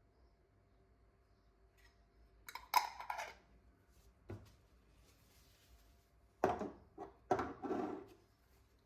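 Kitchenware being handled: a clatter about two and a half seconds in, a single knock just after four seconds, and a run of clatters in the last few seconds.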